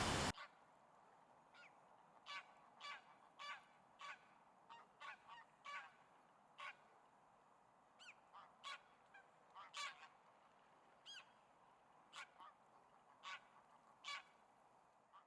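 Geese honking: short, separate honks, one or two a second at irregular intervals, over a faint background. A loud rushing noise cuts off suddenly just at the start.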